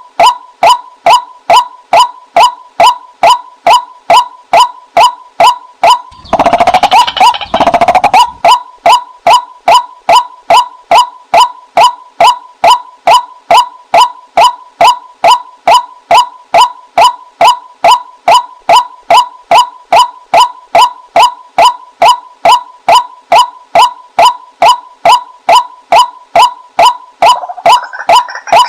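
Female white-breasted waterhen lure call: short calls repeated steadily at about two a second, with a longer, rougher call about six to eight seconds in.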